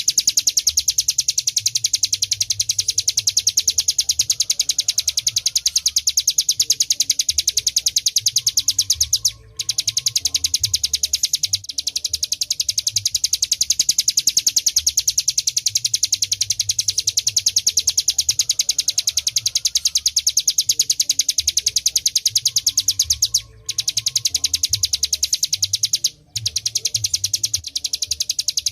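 Ciblek gunung (hill prinia) singing a long, very rapid, drilling trill of high notes, the 'ngebren' song prized in training recordings, broken only by three short pauses.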